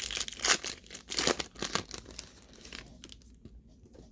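Foil wrapper of a Panini Prizm basketball card pack crinkling and tearing as it is opened, a quick run of crackles for about three seconds before it goes quiet.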